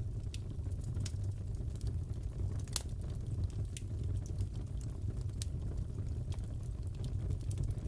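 Fireplace crackling: a steady low rumble of burning with scattered small pops and one sharper pop about three seconds in.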